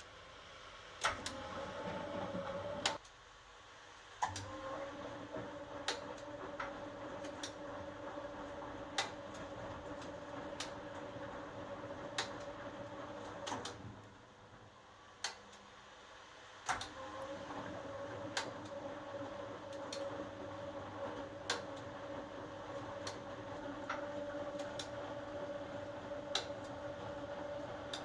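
1980 HUWA Automatic Standard 4 washing machine running with a steady motor hum that stops briefly about three seconds in and again about halfway through before starting up again, with sharp clicks every second or two.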